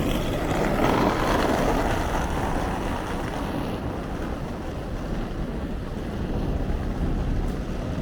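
Wet city street ambience in rain. A vehicle passes on the wet road, its tyre hiss swelling about a second in and fading over the next couple of seconds, over a steady low rumble and the hiss of rain.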